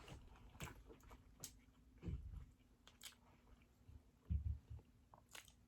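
A person chewing food with the mouth close to the microphone: scattered soft wet mouth clicks and smacks, with a few low thuds around two and four seconds in.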